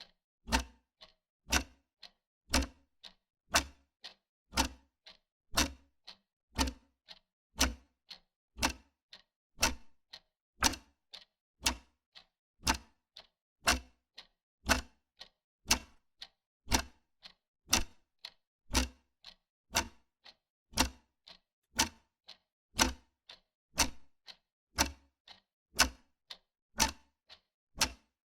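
Wall clock ticking steadily, about two ticks a second, alternating louder and softer in a tick-tock pattern, with silence between the ticks.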